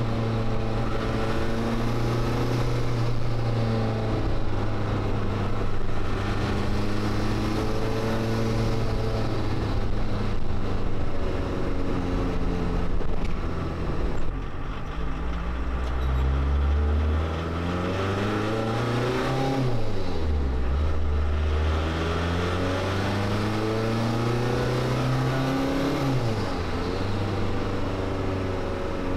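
Mk1 VW Rabbit turbodiesel engine heard from inside the cabin while driving under load. The engine note holds fairly steady at first, then in the second half climbs and drops back twice as the car accelerates.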